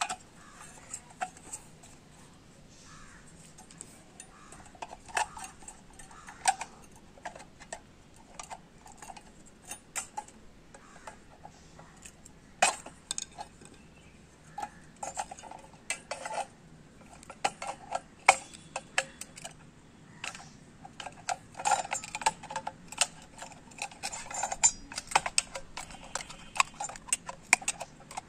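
Irregular metallic clicks, taps and clinks of hand tools working on a microwave oven magnetron, coming thicker and faster in the last third.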